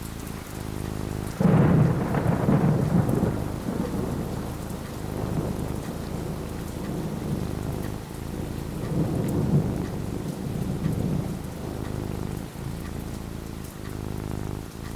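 Thunderstorm with steady rain falling; a thunderclap breaks in suddenly about a second and a half in and rumbles on, swelling again around the middle.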